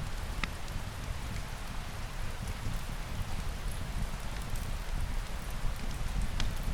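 Steady rain falling: an even hiss with a deep low rumble underneath. Two sharp clicks stand out, one about half a second in and one near the end.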